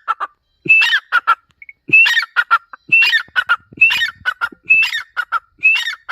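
Francolin (teetar) calling, repeating its call phrase about once a second: each phrase is a rising whistled note followed by three quick, sharp notes.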